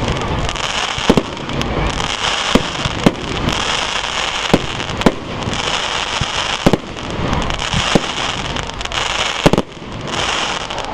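Fireworks display: a string of sharp bangs, about eight in ten seconds, over a steady hiss.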